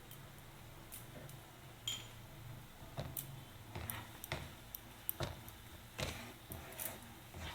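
Spatula stirring and scraping spice paste as it fries in a pan, a string of irregular scrapes and clicks against the metal that grows busier toward the end. This is the masala being fried down until the oil starts to separate.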